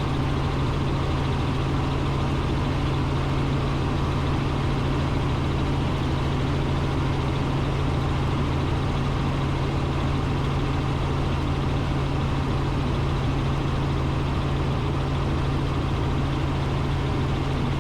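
Robinson R44 Raven II helicopter in steady cruise flight, heard from inside the cockpit: an even, unchanging drone of its piston engine and rotors with a low hum underneath.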